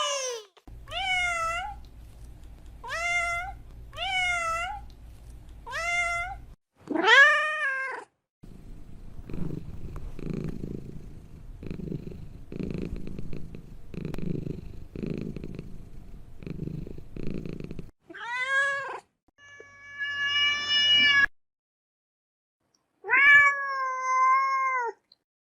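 Domestic cat meowing, a run of short meows followed by a longer one, then about ten seconds of low pulsing purring, then a few more drawn-out meows.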